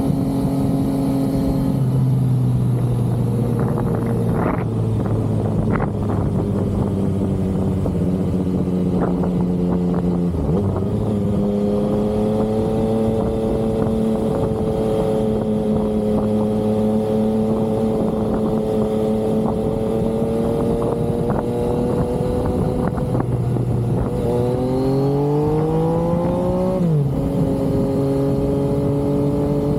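Yamaha XSR900's inline-three engine running under way, holding a steady pitch with gear changes about two seconds and ten seconds in. Near the end it revs up with a rising pitch, then drops sharply on an upshift.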